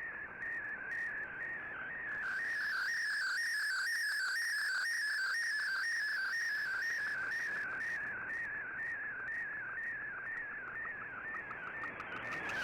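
Shortwave digital-mode data signal received on a shortwave radio: a continuous warbling tone that shifts rapidly up and down in pitch without a break, the audio of an MFSK or SSTV transmission being decoded.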